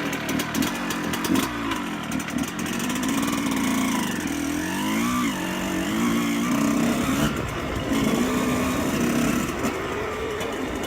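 Suzuki RM 125 dirt bike's two-stroke single-cylinder engine running, its pitch dipping and rising again about five seconds in as the revs change.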